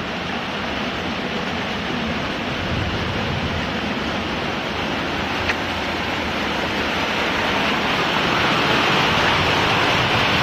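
Heavy rain pouring down in a windy rainstorm: a steady rushing hiss that grows a little louder in the second half.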